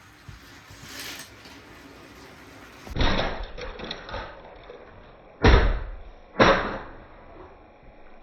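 Three thuds: one about three seconds in, then two sharper knocks about a second apart, each trailing off briefly.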